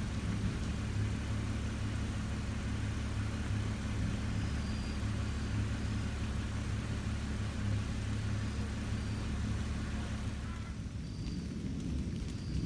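Steady low drone of a car driving, with road and wind hiss over it; the hiss fades about ten seconds in.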